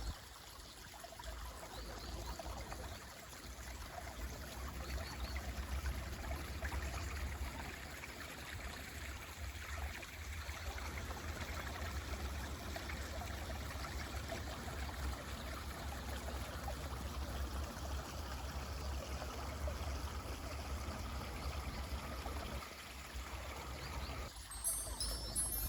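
Mountain stream flowing steadily, a continuous rush and trickle of water with a low rumble underneath.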